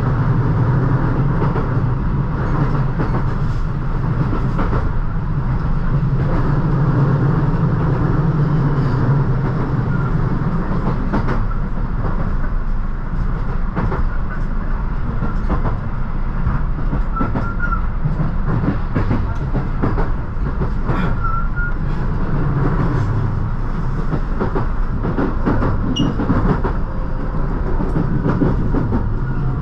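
Inside a local passenger train running on the rails: a steady low rumble with irregular clicks and clatter of the wheels over rail joints and points, and a few brief faint squeaks.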